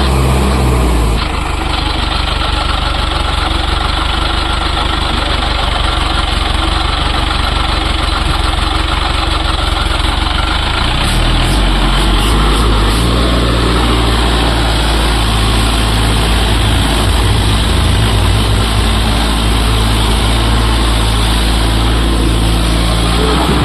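Tractor's diesel engine running steadily, its note changing about a second in and again about eleven seconds in.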